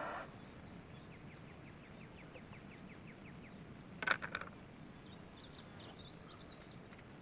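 Quiet outdoor ambience with small birds chirping faintly: a quick run of chirps early on, a short louder call about four seconds in, and scattered high chirps after it.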